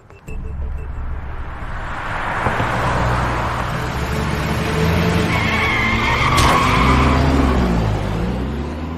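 A car engine revving hard with tyres squealing. It builds quickly after a sudden start, is loudest around six to seven seconds in with the squeal, and cuts off abruptly at the end.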